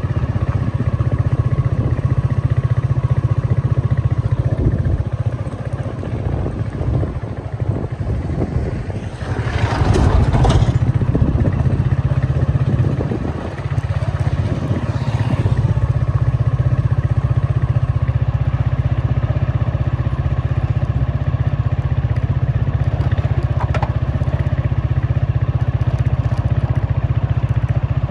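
Road vehicle noise with a heavy, steady low rumble, and a louder vehicle passing about ten seconds in.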